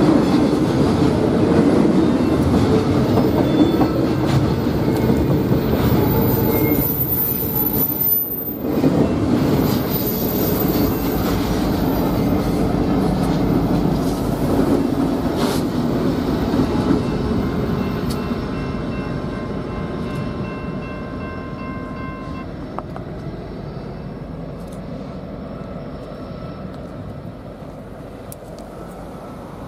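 A BNSF freight train's cars rolling past on steel rails, steel wheels rumbling and clattering over the track, with a thin high wheel squeal through the first half. The sound then fades steadily over the last ten seconds as the train moves away.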